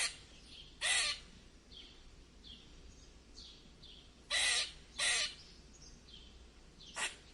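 Harsh, raspy animal calls, five loud ones in a loose series with fainter, shorter calls in between.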